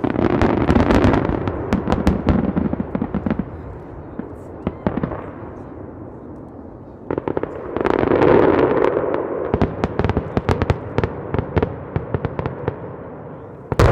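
Fireworks going off: dense runs of rapid crackling cracks in two waves, one at the start and another from about seven seconds in, then a single loud bang near the end.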